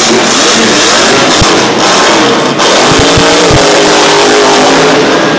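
Monster truck engine running loud and revving, its pitch rising and falling, with a few short low thuds about halfway through.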